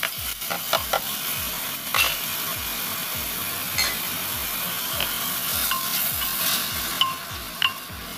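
Raw chicken pieces sizzling as they fry with onions in butter in a pot, with a steady hiss. A wooden spoon stirring them and knocking against the pot several times.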